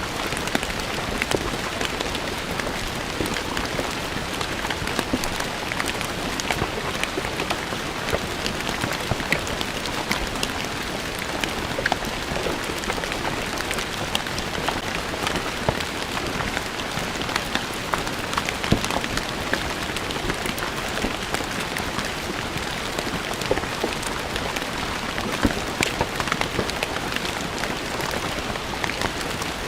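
Steady rain falling on stone paving, an even hiss with many distinct drops ticking on the stone.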